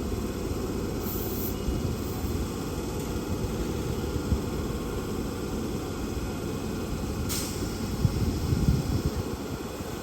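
Hankyu electric train running, a steady low rumble with a few louder knocks near the end.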